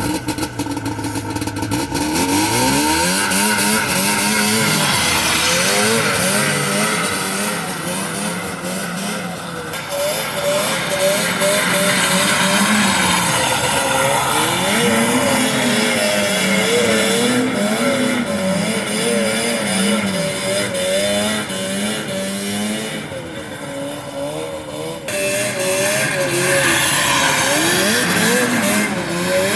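A 1980 Ski-Doo Blizzard 9500 snowmobile's two-stroke engine, revved up and down over and over, its pitch rising and falling and easing off twice.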